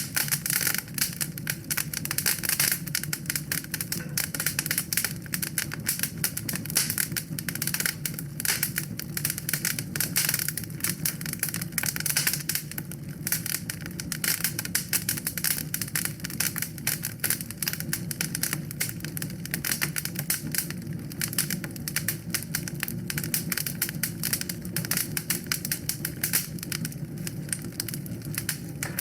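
Wood fire in a fireplace crackling, with rapid constant pops and snaps over a low steady rush.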